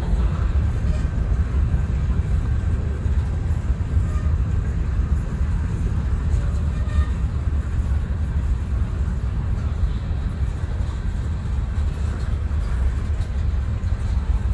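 Freight train cars (boxcars, tank cars and covered hoppers) rolling past at steady speed: a continuous low rumble with faint scattered clicks from the wheels on the rails.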